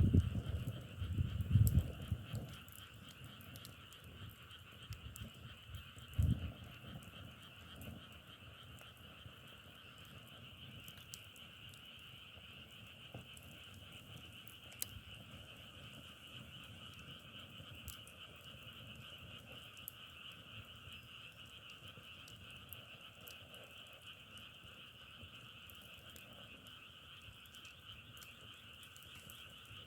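A dense chorus of frogs calling steadily, with scattered faint ticks. A few low thumps come in the first couple of seconds and once more about six seconds in.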